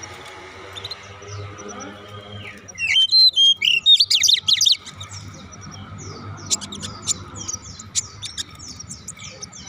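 Many caged songbirds chirping over one another with short, repeated, falling chirps. About three seconds in, one nearby bird lets out a loud run of rapid calls lasting a couple of seconds.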